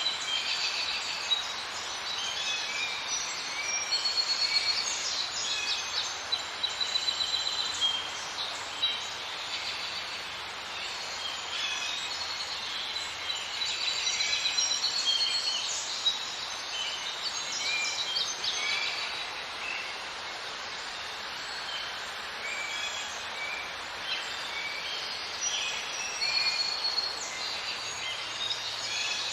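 Outdoor ambience of many small birds chirping and trilling in quick, overlapping high calls over a steady background hiss.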